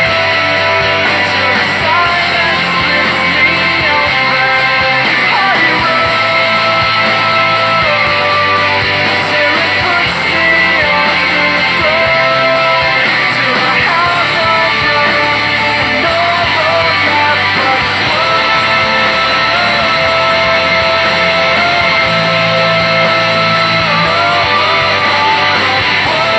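Instrumental rock music led by guitar, held melody notes stepping up and down over a steady band, with no singing.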